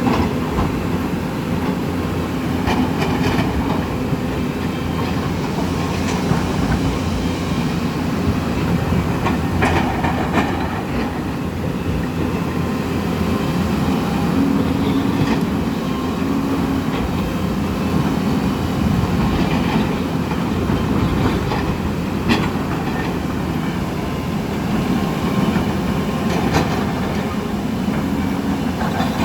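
Floodwater of the Melamchi River rushing in a steady, loud, rumbling roar, with a few sharp knocks scattered through it.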